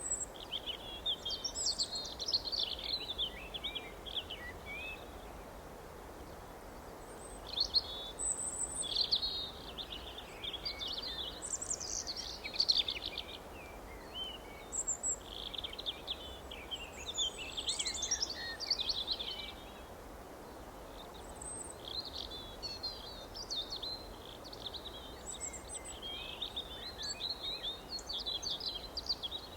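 Songbirds chirping and singing in quick, high twittering phrases that come in clusters with short lulls between, over a steady low background hiss.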